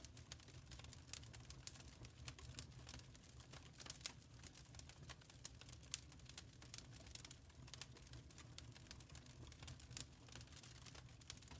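Wood fire crackling in a fireplace: frequent faint, irregular pops and snaps over a low steady rumble.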